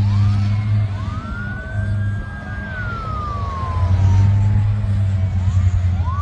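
Emergency vehicle siren in a slow wail: it rises, holds high, falls slowly over a few seconds, then rises again near the end, over a loud steady low rumble.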